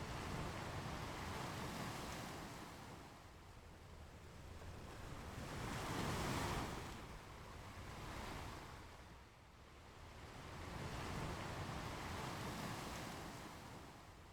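Ocean waves breaking and washing up the beach, the surf swelling and fading every few seconds, with the biggest wave about six seconds in.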